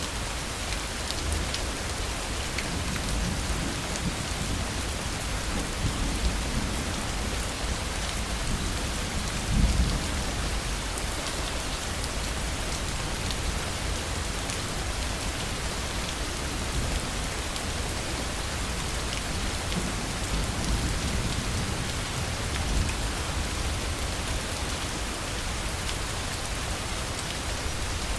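Heavy rain falling steadily, with low rolls of thunder rumbling underneath several times, the strongest about a third of the way in.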